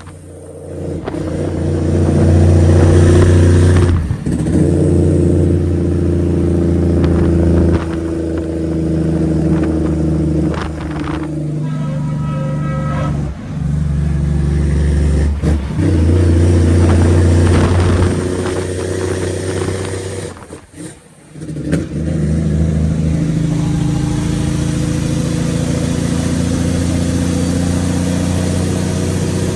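Straight-piped Cummins ISX inline-six diesel in a semi truck pulling under load. The exhaust note cuts out briefly several times, the deepest gap about 21 seconds in, the pattern of the driver lifting off the throttle to shift through an 18-speed gearbox.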